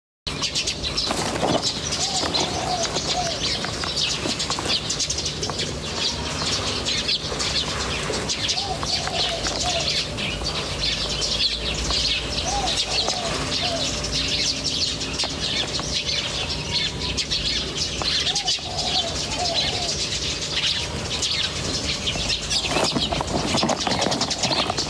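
A chorus of many birds chirping densely and without pause. Under it, a lower wavering call recurs every few seconds. The sound starts suddenly just after the beginning.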